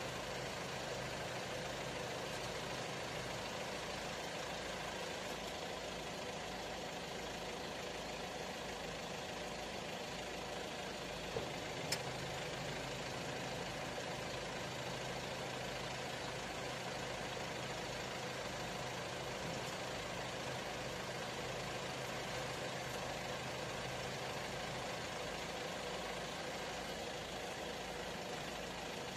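An engine idling steadily, with two short clicks about eleven and twelve seconds in.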